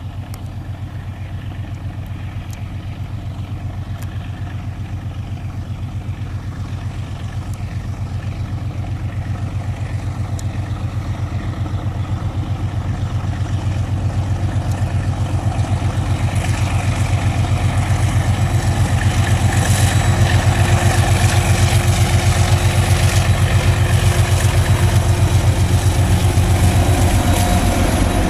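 ALCO RSD16 diesel-electric locomotive's V16 engine working under load as it pulls a loaded hopper train, a deep, fast-pulsing engine note that grows steadily louder. From about halfway a hiss and rattle build up over it.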